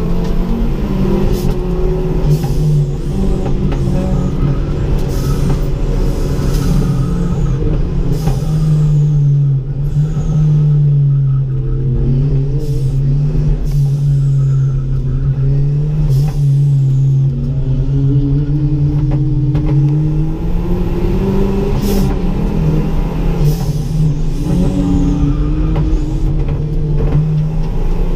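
Ford Ka's engine running under way, its pitch holding fairly steady with slow rises and falls, with short sharp puffs of noise every few seconds.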